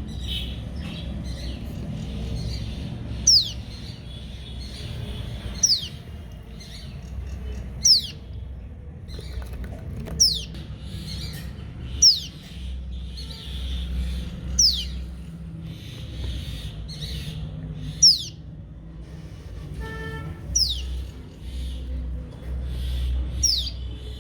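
A lone young bird calling for its parents with short, sharp, high chirps that slide downward, about one every two seconds, over a low steady rumble.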